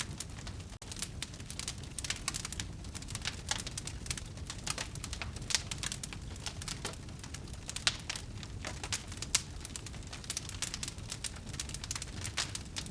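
Wood fire burning in a fireplace: steady crackling with many irregular sharp snaps and a few louder pops over a low rumble of the flames, broken by a very brief dropout about a second in.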